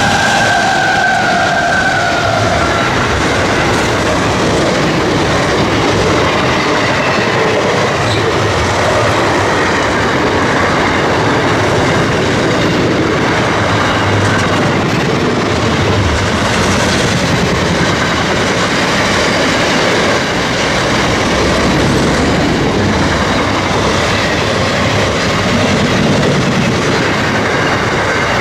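Freight train wagons rolling past at close range, a loud steady rumble and rattle of wheels on rail with some clickety-clack. A high steady squeal fades out over the first few seconds.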